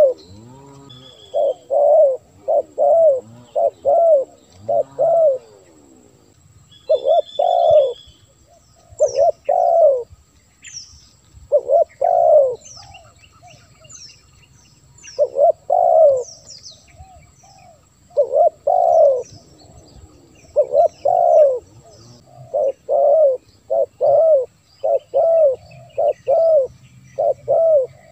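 Spotted dove cooing in repeated phrases of several coos, with short pauses between phrases. Faint high chirps of small birds sound in the background.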